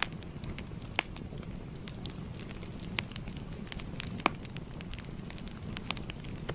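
Wood fire burning with a steady low rumble and irregular crackles, with a few louder pops about a second in, around three seconds and just past four seconds.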